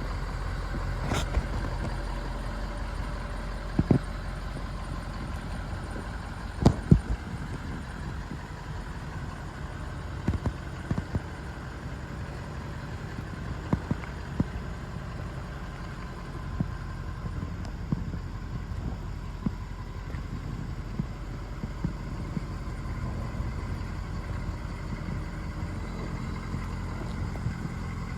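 A Ford 6.7-litre Power Stroke turbo-diesel V8 idling steadily. Sharp clicks and knocks come now and then, the loudest about seven seconds in.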